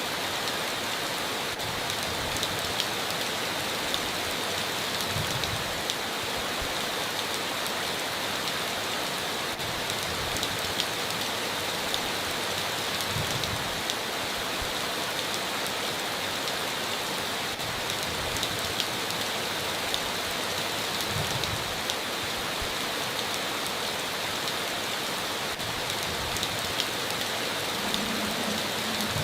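Steady rain falling in an even hiss, with scattered sharp ticks of individual drops striking.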